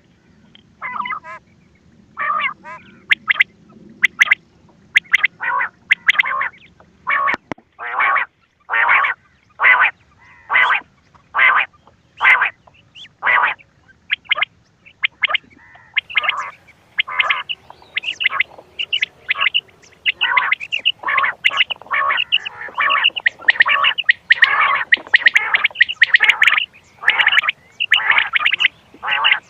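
Quail calls from a recording used to lure quail for hunting: short calls repeated roughly once a second, growing denser and overlapping in the second half.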